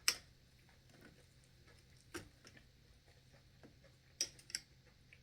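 Eating noises during a mukbang: a few short, sharp clicks and smacks, the loudest right at the start, another about two seconds in and two close together near the end, over a faint quiet room.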